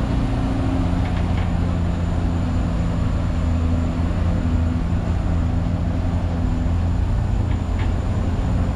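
Studio tour tram running along, a steady low engine drone with a few held humming tones underneath.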